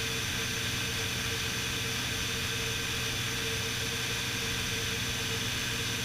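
Beechcraft Bonanza S35's engine and propeller droning steadily in the cockpit during the climb after takeoff, a constant hum with a steady tone over a hiss.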